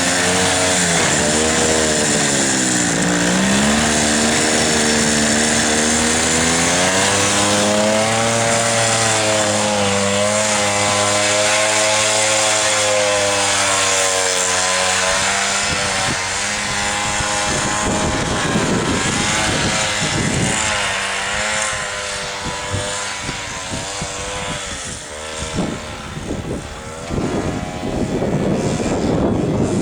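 Two-stroke single-cylinder engine of a homemade Minsk-motorcycle snowmobile running, its revs rising and falling repeatedly. From about halfway, irregular gusts of loud rushing noise cover the engine.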